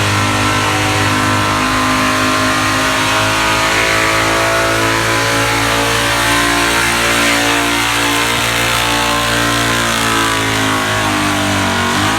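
Pickup truck engine running at high revs under full load while pulling a weight-transfer sled, held near wide open throttle, with the pitch sagging slowly as the sled bogs it down.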